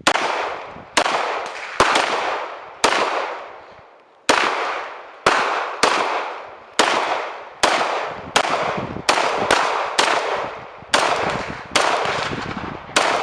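Gunshots at a shooting range, about eighteen sharp cracks fired at an uneven pace, some under half a second apart, each with a long fading echo.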